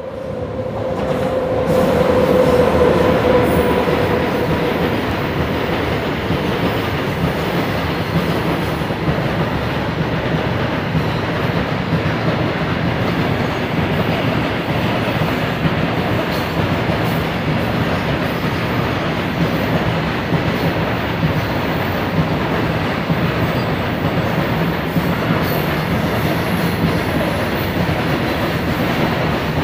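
A long freight train of covered goods wagons running past close by, its wheels on the rails making a steady rolling noise. A held tone sounds over the first few seconds as the locomotive goes by.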